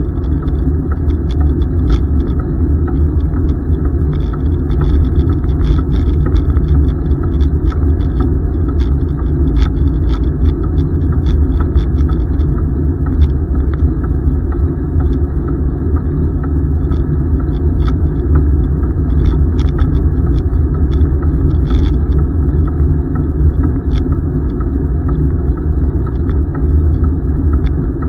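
Steady loud rumble of wind and tyres on the microphone while riding a bicycle, with scattered light clicks and rattles.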